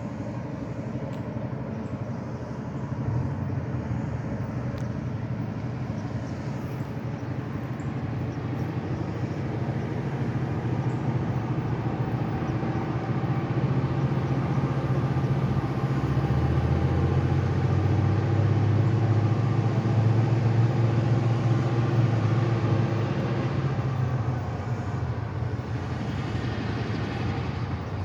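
Diesel locomotive engine running steadily, growing louder about halfway through with a deeper note added, then easing back near the end.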